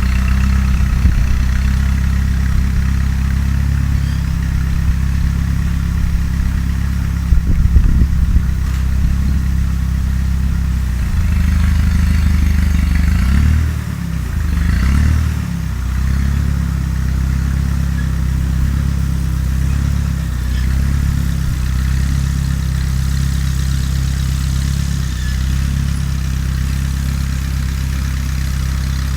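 Fiat 352c tractor engine running steadily while ploughing, with a few sharp knocks about seven to eight seconds in. Around the middle the engine note dips and wavers, then settles back to a steady run.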